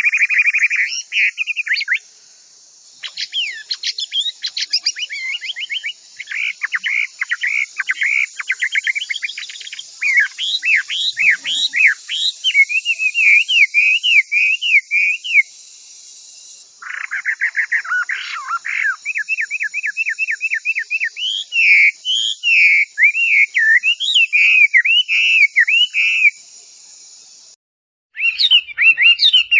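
Chinese hwamei (Garrulax canorus) singing loudly: fast trills and long runs of repeated slurred whistled notes in changing phrases, broken by a few short pauses, over a steady high hiss that stops shortly before the end.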